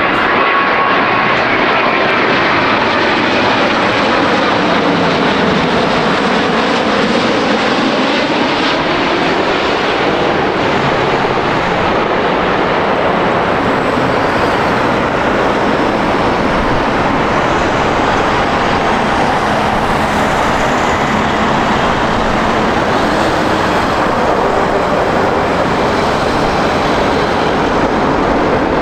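Jet airliner's engines passing close, with loud, steady engine noise and a whine that sweeps down and back up as the aircraft goes by.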